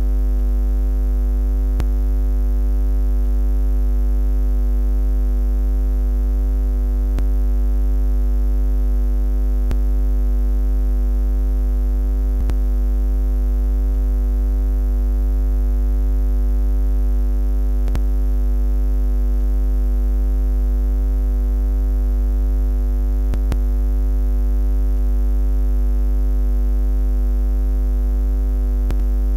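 Steady low buzzing drone, a constant hum with a stack of evenly spaced overtones that never changes in pitch or loudness. A few faint clicks are scattered through it.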